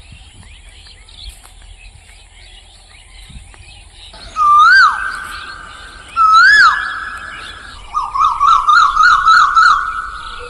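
Small birds chirping, then two loud swooping whistled calls, each trailing into a held note. Near the end comes a fast wavering trill of about six or seven notes.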